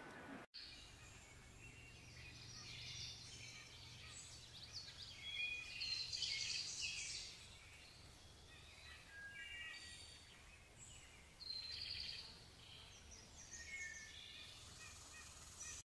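Faint outdoor birdsong: several small birds chirping and trilling in short, varied phrases, loudest twice in the middle of the stretch, over a low steady hum.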